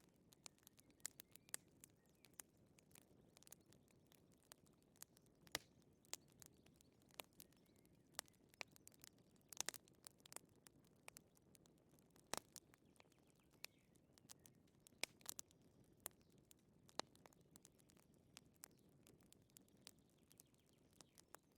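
Wood fire crackling, with irregular sharp snaps and a few louder pops over a faint low hiss.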